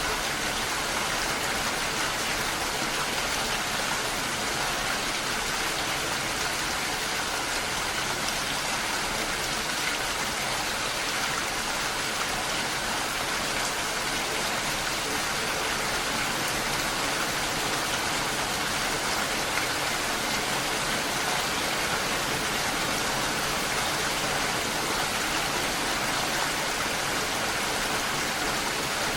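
Steady rainfall, a dense even patter of drops with no thunder or other breaks.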